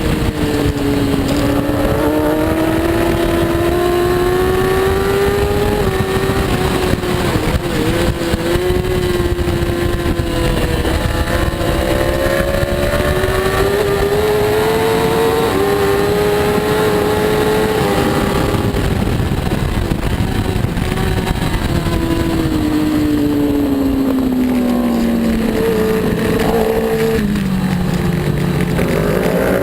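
Superbike engine racing at high revs. The note climbs gradually with brief dips at gear changes, falls steadily for several seconds near the end as the bike slows, then climbs sharply again, over a heavy rushing noise.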